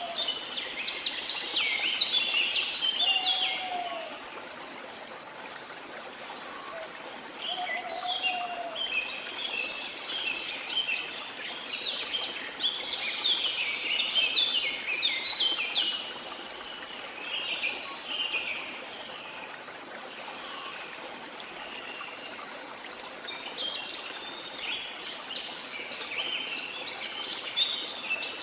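Songbirds chirping in rapid, high-pitched bouts that come and go, with a couple of short lower whistles in the first ten seconds, over a steady rush of waterfall water.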